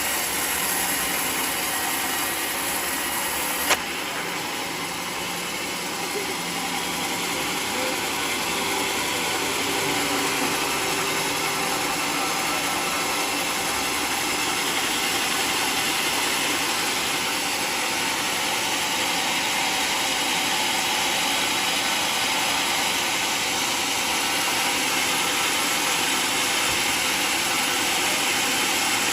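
Portable sawmill running steadily, its engine and blade working through a mahogany log. A sharp click comes about four seconds in, after which the sound shifts slightly.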